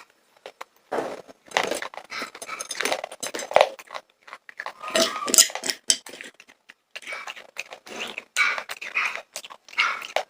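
Popcorn being crunched and chewed in irregular crackly bursts with short pauses between them.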